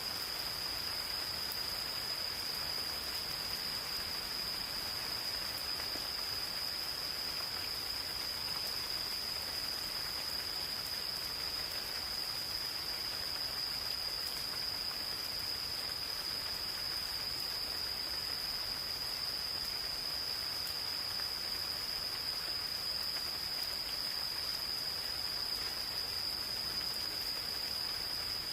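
Gentle rain falling steadily on a forest, with a chorus of insects making one high, unbroken trill throughout.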